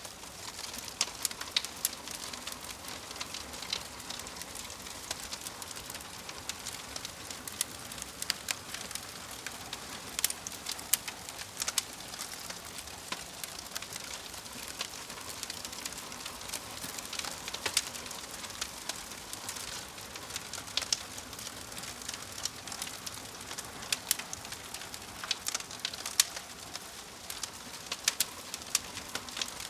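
Wood fire burning in a fireplace: a steady soft hiss with sharp, irregular crackles and pops, a few louder snaps standing out.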